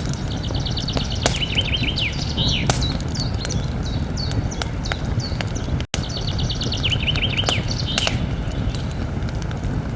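Campfire burning with scattered sharp crackles and pops over a steady low rush. A songbird sings a quick phrase of repeated notes followed by a descending trill twice, once near the start and again about six seconds in, with a brief dropout in the sound just before the second phrase.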